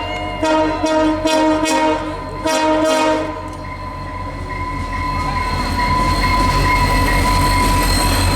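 A passenger train's locomotive air horn sounding a multi-note chord in several short blasts over the first three seconds, then the train running past with a steady, building rumble of wheels on rail and a thin whine.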